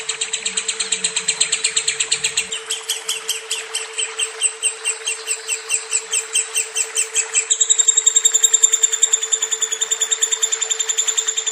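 Lovebird singing one long, unbroken trill of fast, high, repeated chirps. The pattern shifts about two and a half seconds in and again about seven and a half seconds in, becoming quicker and more even. A steady low hum runs underneath.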